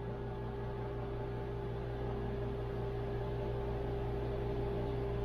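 Steady background hum of a running machine or fan, with a constant mid-pitched tone over low droning, unchanging throughout.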